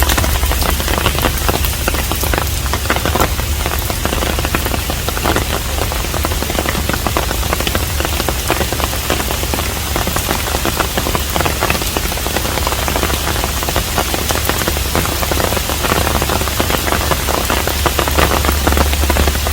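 Steady rain falling on a Korean hanok, a dense patter of countless drop impacts over a low, steady rumble, holding an even level throughout.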